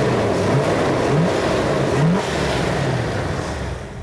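A Jeep CJ-7's 5.9-litre AMC 360 V8 with a Holley four-barrel carburettor, running and revved in two short throttle blips, about a second in and two seconds in. The engine runs smoothly and evenly.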